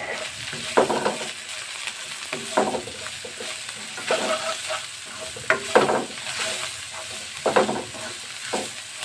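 Sliced onions and green chillies sizzling in oil in a non-stick wok while a plastic spatula stirs them, scraping across the pan in strokes every second or two over a steady hiss.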